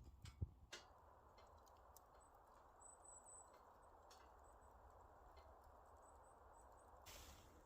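Faint crackling of a small wood fire: a few sharp pops in the first second, then a soft steady hiss with scattered faint ticks.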